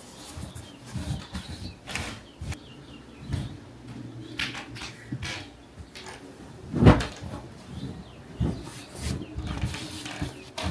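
Bedding being handled as a bed is made: cloth rustling and scattered soft thumps, with one heavier thump about seven seconds in.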